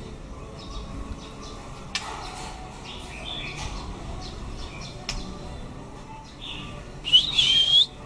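White-rumped shama giving short scattered chirps, then a loud warbling whistle that wavers up and down near the end. Two sharp clicks come about two seconds in and again about five seconds in.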